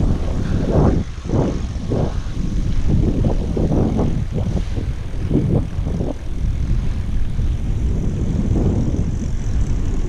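Wind buffeting the microphone of a GoPro strapped to a cyclist while riding: a loud low rumble that surges in irregular gusts.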